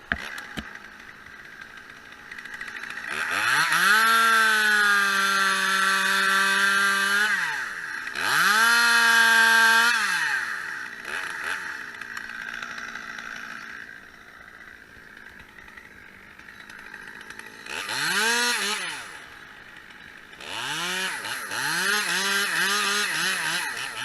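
Two-stroke chainsaw revved to full throttle and held twice for a few seconds each, dropping back to idle in between. Near the end it revs once briefly, then is blipped several times in quick succession.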